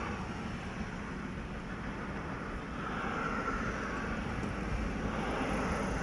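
Jet airliner engines heard from a distance: a steady low rumble with a hiss that swells about three seconds in and again near the end.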